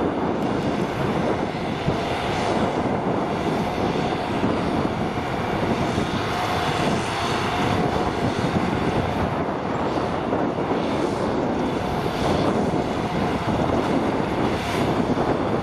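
Tractor engine running steadily under load with a hay baler working behind it, a continuous drone with a faint steady whine.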